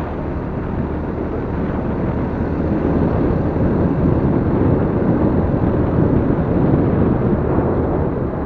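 Vehicle driving along a road: a steady rumble of engine, tyres and wind that grows louder about three seconds in.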